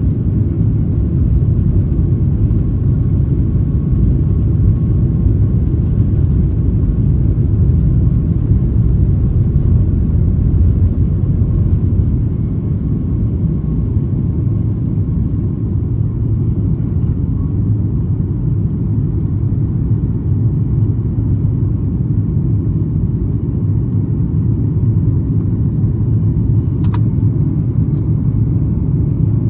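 Inside the cabin of a Boeing 737 MAX 8 during climb-out: a steady, loud low rumble of its CFM LEAP-1B engines and airflow, easing slightly partway through. Two faint ticks come near the end.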